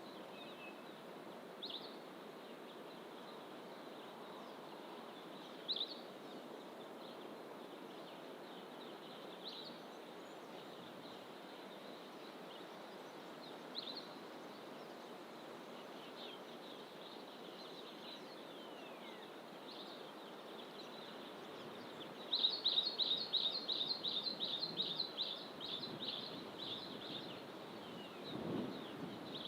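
Wild songbirds calling in dense fynbos bush over a steady background rush: single short high calls every few seconds, then near the end a loud, fast run of repeated high notes lasting about five seconds.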